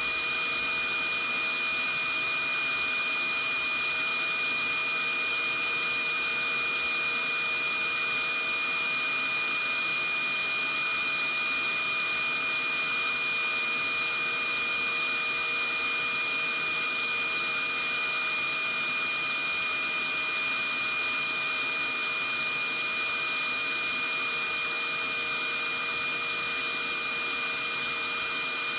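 Vacuum cleaner running steadily: an unchanging rushing hiss with a high, steady whine on top.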